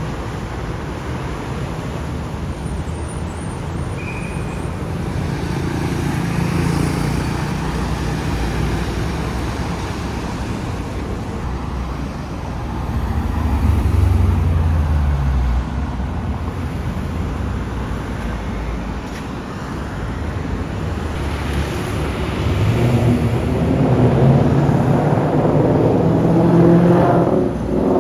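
Street traffic with car engines running and passing. A loud low swell comes about halfway through, and near the end a car engine accelerates hard with rising pitch.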